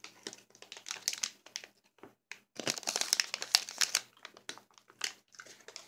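Crinkling plastic candy bag being handled, an irregular crackle with a denser, louder stretch from about two and a half to four seconds in.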